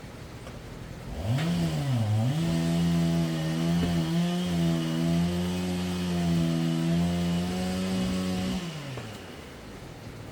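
Chainsaw engine revving up about a second in, dipping briefly, then held at high speed for about six seconds before winding down near the end.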